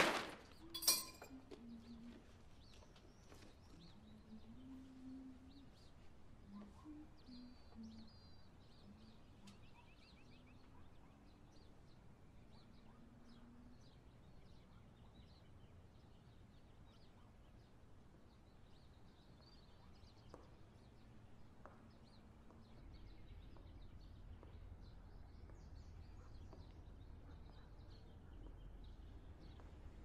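Quiet room tone with faint birds chirping in the background. A couple of sharp knocks at the very start, and a low hum that comes up a little about three-quarters of the way through.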